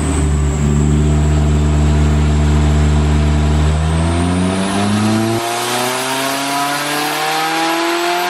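Nissan CA18DET turbocharged 1.8-litre four-cylinder engine running on a rolling-road dyno during a mapping run. It holds steady revs for about four seconds, then the revs climb steadily through the rest as it pulls under load.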